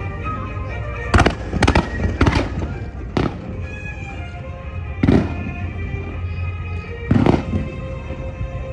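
Fireworks shells bursting in sharp bangs, about six in all, the first three close together in the first two and a half seconds and the rest spaced out, over music playing throughout.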